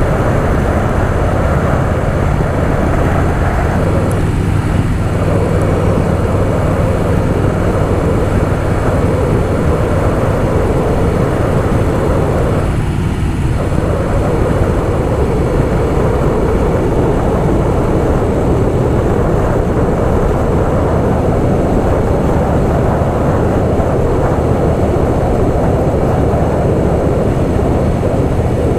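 Harley-Davidson Softail Fat Boy's V-twin engine running steadily at cruising speed, mixed with wind and road noise on the bike-mounted mic. Its level holds even throughout, with two short dips in the sound about four and thirteen seconds in.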